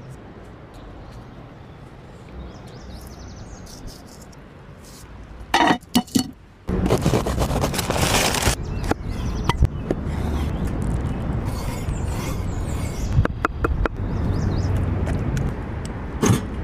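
Campfire cooking sounds: a low hiss, then a few sharp knocks, then from about seven seconds in a much louder, steady hiss of food sizzling over the fire, with scattered crackles and clicks.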